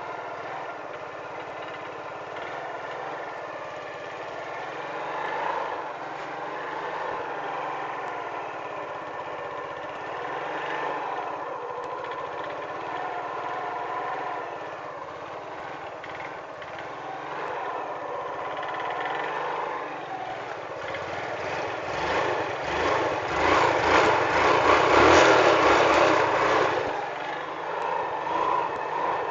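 Jialing 175 motorcycle engine running steadily, then getting louder for a few seconds about three-quarters of the way through before settling again.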